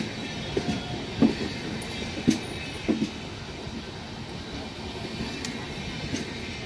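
Train running past on the track: a steady rumble of wheels on rail with a few sharp clacks over rail joints in the first three seconds, then a steadier, slightly quieter run.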